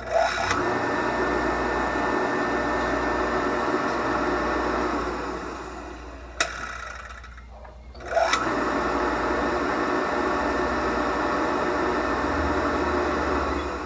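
A 1/2 HP electric water pump running unprimed, not yet bled: its motor starts, runs steadily for about five seconds and winds down, then after a click starts again about eight seconds in and runs steadily until shortly before the end.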